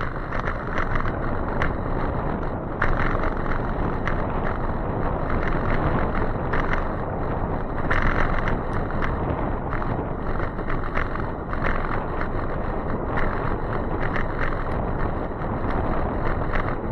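Steady rushing noise of riding an e-bike in the rain: wind on the microphone and wet road noise, with many scattered short crackles throughout.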